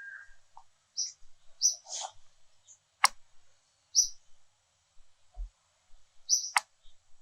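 Short, high bird chirps repeated every second or so, with two sharp clicks about three and a half seconds apart. The tail of a rooster's crow ends just as it begins.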